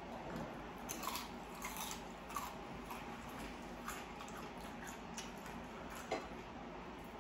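Close-up chewing and biting of crispy fried chicken: irregular crunches, roughly one every half-second to a second.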